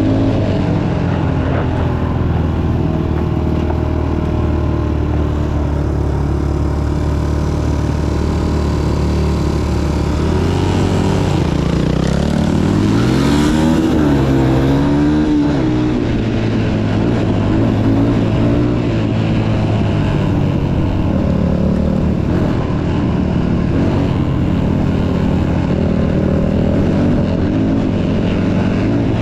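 Motocross bike engine running steadily, then revving up and down several times about halfway through, its pitch rising and falling, before settling back to a steady run.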